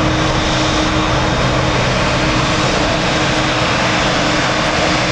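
Jet airliner engines running loud and steady, a constant rushing noise with a low hum underneath.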